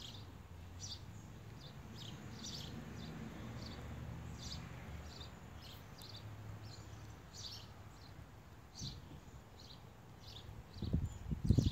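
A bird chirping over and over, short high calls about twice a second, over a low steady rumble. Near the end, a run of loud, dull knocks.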